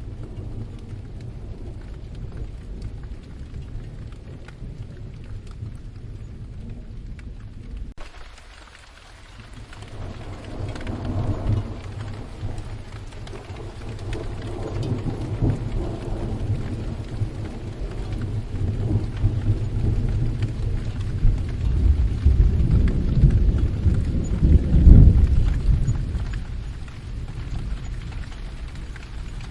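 Steady rain with rolling thunder. The rain hiss changes abruptly about eight seconds in, and from there long low rumbles of thunder swell, loudest about 25 seconds in, then die away.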